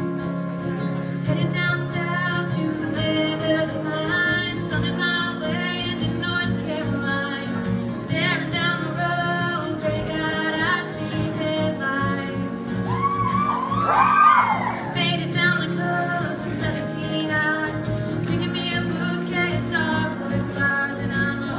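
Female a cappella group singing in close harmony, the voices holding steady stacked chords. About two-thirds through, one voice slides up and down in a short run above the chords.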